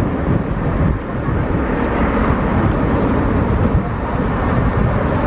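Jet airliner on final approach: a loud, steady noise from its engines and airframe, heaviest in the low range.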